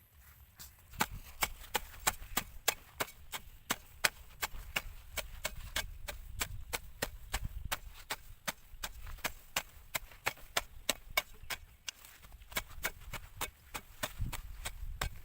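A hand tool chopping with sharp, regular strikes, about three a second, over a low rumble.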